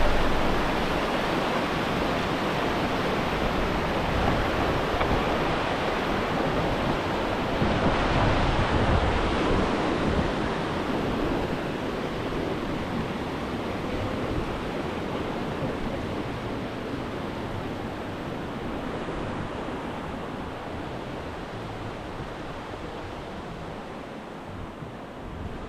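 Steady rushing noise of water and wind with no distinct events, slowly fading out.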